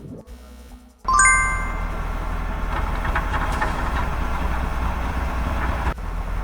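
Quiet for about a second, then a sudden bright chime sound effect and cartoon background music over a steady low hum.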